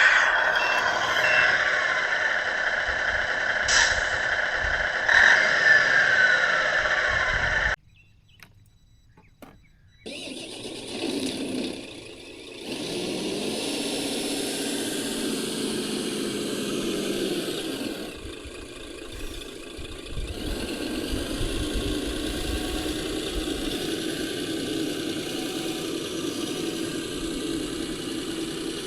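Radio-controlled model construction vehicles running: a steady electric motor and gear whine, then, after a brief break, a lower engine-like sound that starts up and runs steadily.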